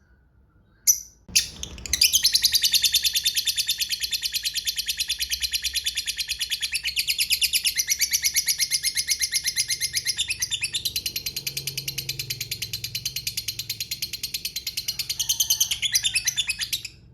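Lovebird's long 'ngekek' chatter. A couple of single sharp chirps come first. Then a fast, unbroken run of repeated high, shrill notes lasts about fifteen seconds and stops suddenly near the end.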